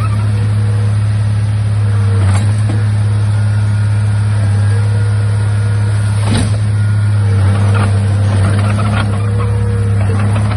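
Heavy diesel engine of earthmoving equipment running steadily under load, with two sharp knocks about two and six seconds in, the second the loudest.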